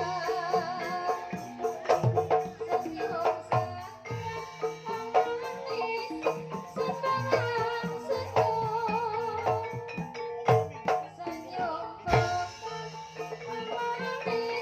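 Banyumas-style gamelan music: struck keyed percussion and drum strokes in a steady rhythm, with a sinden's wavering, vibrato singing voice over it.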